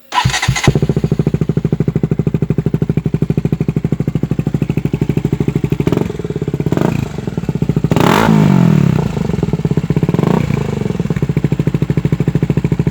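KTM RC200's single-cylinder engine, breathing through a custom exhaust with the dB killer removed, firing up after a brief crank. It then idles with a loud, rapid pulsing and is blipped on the throttle about six, eight and ten seconds in.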